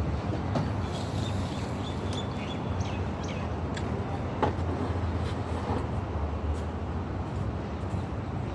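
Steady low vehicle rumble, with scattered light clicks and a few faint high squeaks.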